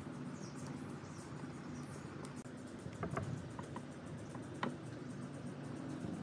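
Faint, scattered light clicks and taps from hands working on a small object, a few together about halfway through and one sharper click later, over a low steady background.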